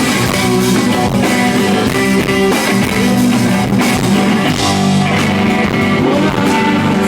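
A live rock band playing an instrumental passage with guitars and drum kit, no singing. It is loud and steady throughout.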